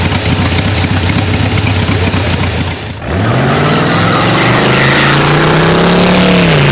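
A vehicle engine rumbling for about three seconds, then revving up sharply about three seconds in, held at high revs and beginning to drop near the end.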